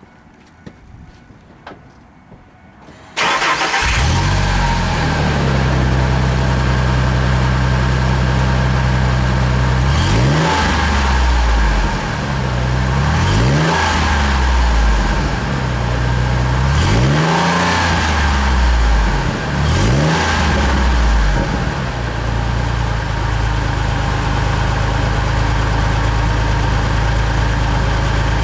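2001 Ford F-150's 4.2-litre V6 with a Magnaflow single-in, single-out turn-down exhaust, started about three seconds in after a few faint clicks. It idles, is revved and let fall back four times, then settles into a steady idle.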